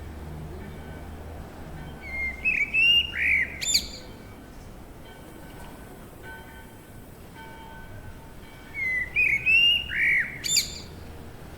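A bird calls twice, about six seconds apart, each call a short run of swooping notes ending in a sharp high note, over a steady background hiss.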